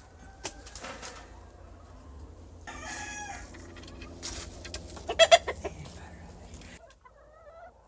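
Chickens clucking and calling, with a short call about three seconds in and a quick run of sharp clucks a little after five seconds, over a steady low rumble.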